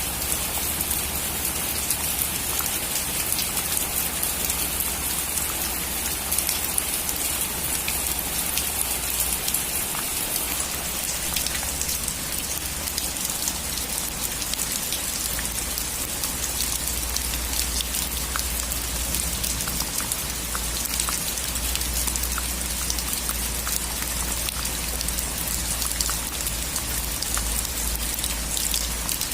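Steady rain falling on a roof, an even hiss dotted with many small drop ticks, over a low steady rumble.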